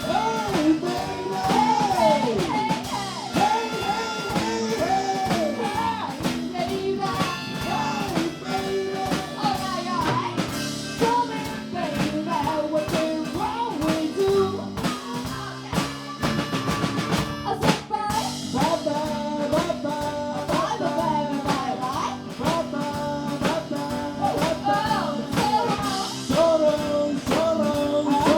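A live blues band playing a song, with a drum kit keeping time under a melody line of sliding, bent notes.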